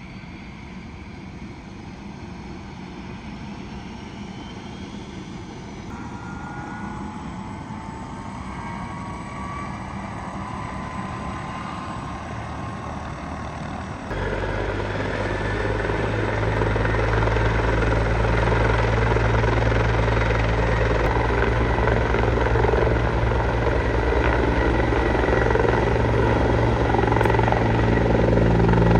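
Air ambulance helicopter running up for takeoff: a turbine whine climbing in pitch over steady engine noise. About halfway through, the rotor noise jumps suddenly much louder and heavier, then keeps building toward the end.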